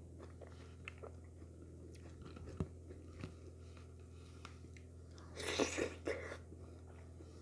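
Close-up, wet mouth sounds of eating wheat fufu and slimy okra soup by hand: chewing with small scattered clicks, then a louder wet mouth sound lasting under a second about five and a half seconds in.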